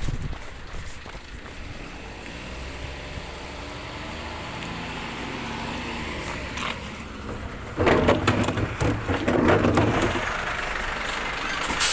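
Glass recycling truck's diesel engine running and revving up, its pitch rising, then about eight seconds in a loud burst of clattering and crashing lasting a couple of seconds.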